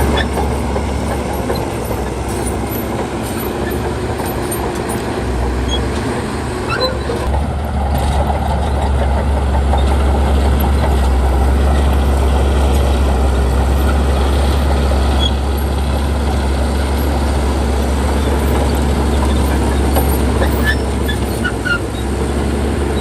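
Heavy diesel earthmoving machinery, a dump truck and bulldozer, running steadily, with the sound concentrated deep and low.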